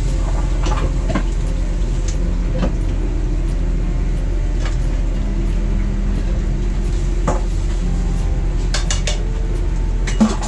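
Pans and cutlery clinking and knocking now and then over a steady low hum, with a quick run of clinks near the end and one louder knock just before it ends.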